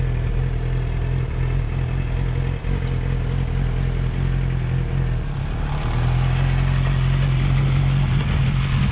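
Motorcycle engine running steadily in first gear as a new rider pulls away slowly, feeding in the clutch and throttle. It gets louder about six seconds in.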